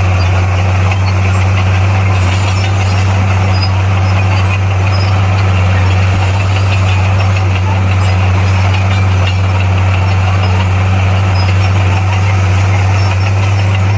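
Heavy diesel engine of earthmoving equipment running at a steady speed, a loud unchanging low hum with a rattly noise above it.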